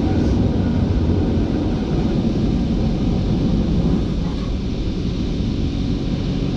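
Automatic car wash machinery and spray running around the car, heard from inside the cabin: a steady low rumble with a hiss on top.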